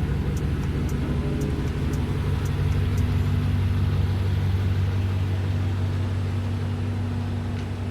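Car engine running at low speed, a steady low drone heard from inside the cabin as the car is moved; the engine is cold and the car is a loud one.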